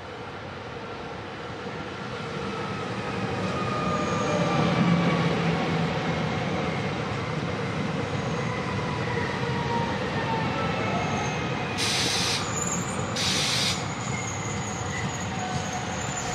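SNCF passenger multiple-unit train approaching and rolling slowly past, growing louder over the first five seconds, with thin wheel-on-rail tones sliding in pitch. Two short hissing bursts come about a second and a half apart near the end.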